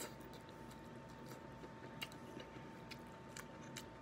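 Faint close-up chewing of a mouthful of rice, with scattered soft mouth clicks over a faint steady hum.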